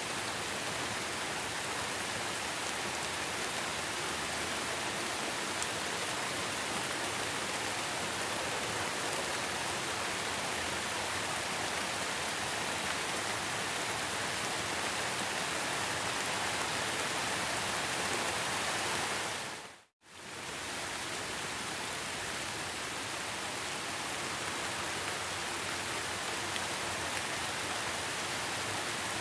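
Heavy rain falling in a steady, dense hiss. About two-thirds of the way through it fades out to a moment of silence and comes straight back at the same level.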